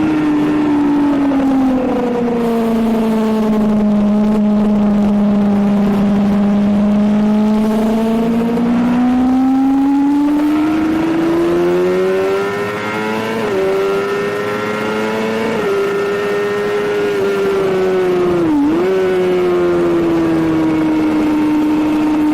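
Suzuki GSX-R750 K7 inline-four racing motorcycle engine at high revs: the revs fall away slowly, then climb again from about eight seconds in, with three brief dips at gear changes in the second half, over a steady rush of wind noise.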